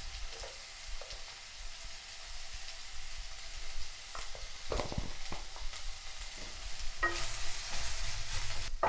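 Sliced onions frying in oil in a pan, a steady sizzle, with a spatula stirring and knocking against the pan a few times. The sizzle grows louder about seven seconds in.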